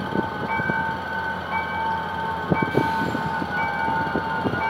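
GM GT22CW-2 diesel-electric locomotive hauling a passenger train slowly over a level crossing, its engine and wheels rumbling with irregular knocks. Over it runs the crossing's warning signal: a steady electronic tone with a short higher beep about once a second.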